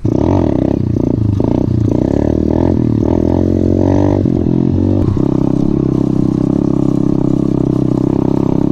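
Coolster 125cc pit bike's single-cylinder four-stroke engine running under the rider. It rises and falls in pitch through the first five seconds, then holds a steady speed.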